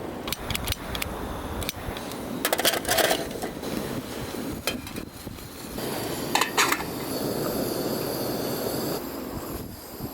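Metal cookware and utensils clinking and scraping in a series of sharp knocks, over steady wind noise.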